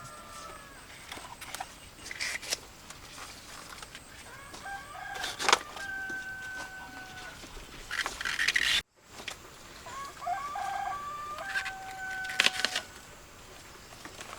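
Roosters crowing, two long crows about 5 s and 11 s in, with clucking and a few sharp knocks and clatters around them. The sound cuts out briefly just before the second half.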